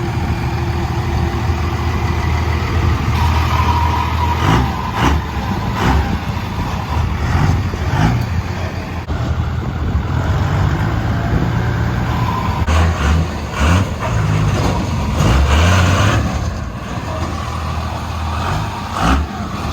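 Truck engines revving loudly, with a steady low rumble and repeated sharp bursts; the sound changes abruptly several times.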